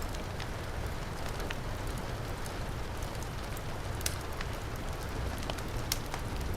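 Heavy rain falling steadily with a low rumble, mixed with a crackling wood fire. Scattered sharp clicks run throughout, the strongest about four seconds and six seconds in.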